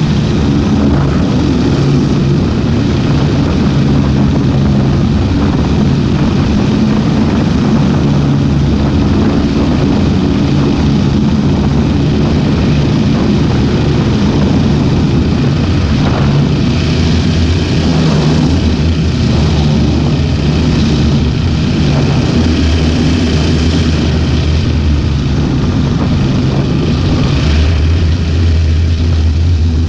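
Ultralight aircraft's engine and propeller running steadily, with its note shifting partway through and a deeper tone coming in near the end.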